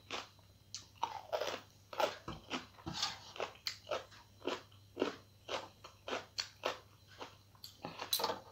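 A person chewing crunchy food, a run of crisp crunches about two or three a second.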